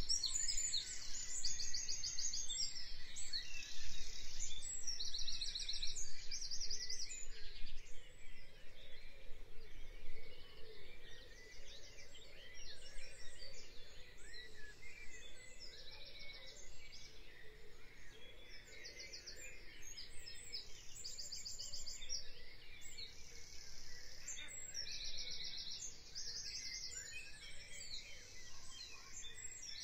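Birds chirping and trilling: many short, high, rapid trills overlapping one after another over a soft steady background, louder in the first few seconds and then easing.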